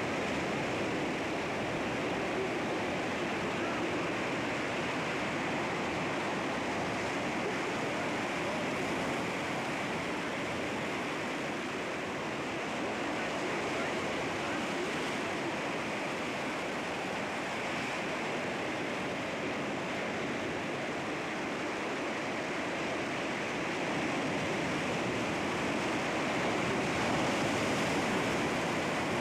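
Sea waves breaking against rocks: a continuous, steady rush of surf, swelling slightly near the end.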